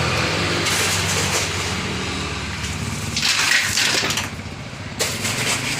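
A motor hums steadily under loud, gritty crunching and scraping of sand being moved, which swells about three seconds in.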